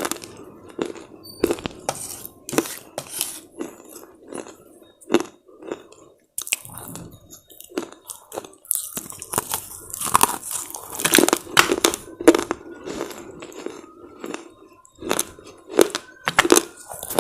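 Close-miked biting and chewing of hard, brittle slate chips: an irregular run of sharp crunches, with a brief pause about six seconds in.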